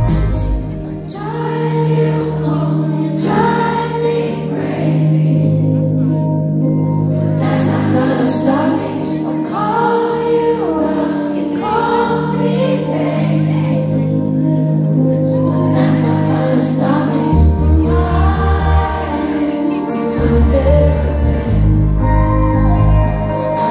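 Live pop song: a female lead vocal sings over a band with sustained bass notes.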